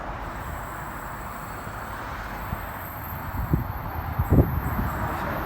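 Wind buffeting the microphone over a steady rushing background, with stronger gusts about three and a half to four and a half seconds in.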